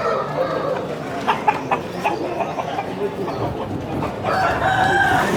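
Rooster crowing: one long call starts about four seconds in and runs on past the end, with a few short sharp sounds around the middle.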